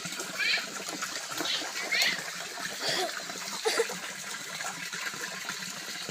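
A few short, high-pitched calls from a small animal, then lower cries about three to four seconds in, over running and splashing water.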